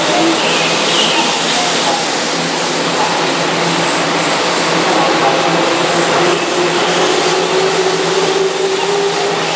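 Keihan electric commuter train running along the platform close by, a steady rumble of wheels on rail. In the second half a motor whine rises slowly in pitch as the train picks up speed.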